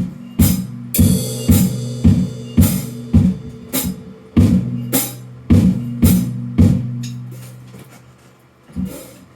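A drum struck by hand in a steady beat of about two strokes a second, each stroke leaving a low ringing tone. There is a brief metallic ringing about a second in. The beat fades to a pause near the end, broken by a single stroke.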